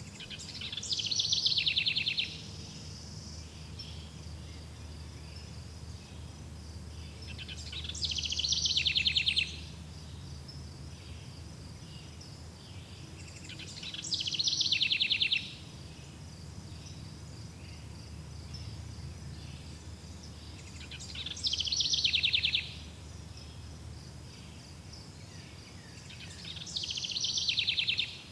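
A bird sings the same short phrase five times, about every six seconds, each phrase ending in a rapid trill. Under it runs a steady high insect chirring and a low rumble of forest ambience.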